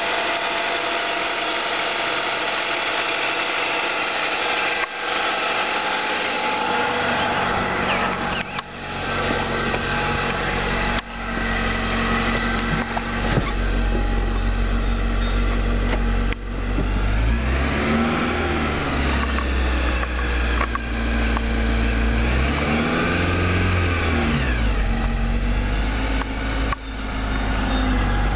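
Honda Accord CB9's 2.2-litre four-cylinder engine running, with a steady high-pitched whine over it that the owner cannot place; it is revved up and back down twice in the second half.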